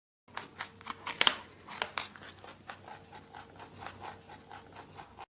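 Rabbit chewing: a quick, irregular run of small crisp crunching clicks, a little louder about a second in.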